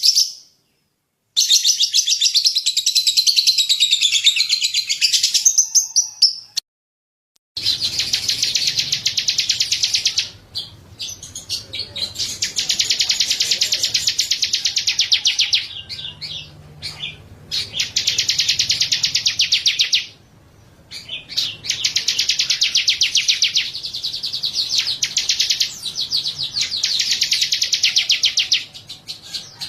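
A small songbird's rapid, high-pitched chirping trills in bouts of a few seconds each, with abrupt breaks between bouts. This is a masteran recording, played to caged songbirds to tutor their song.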